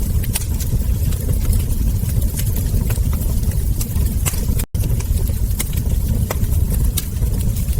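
Wood fire crackling, with frequent sharp pops over a steady low rumble. The sound cuts out completely for an instant about four and a half seconds in.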